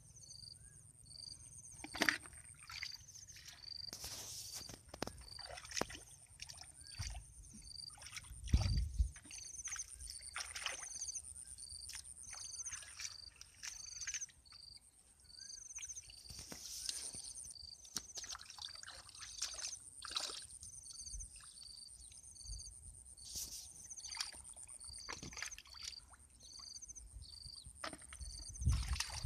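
Water splashing and sloshing in irregular bursts, with a few heavier low splashes. Under it runs a steady high insect drone, and a short high chirp repeats a little faster than once a second.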